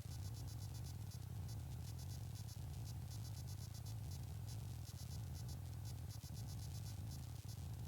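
An Evektor SportStar's engine running steadily in flight, heard from inside the cockpit as a low, even drone with a faint high buzz over it.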